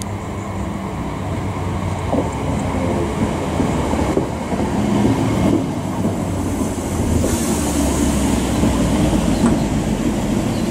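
Class 317 electric multiple unit running into the platform close by and slowing almost to a stop, a steady rumble that swells as it draws level, with its wheels clicking over the rail joints.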